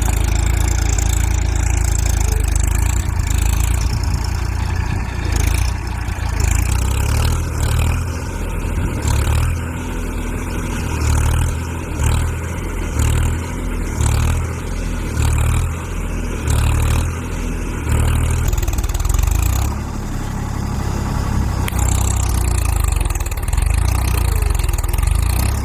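Massey Ferguson tractor's diesel engine running hard, a deep, loud rumble that swells and falls about once a second through the middle stretch as the throttle works up and down.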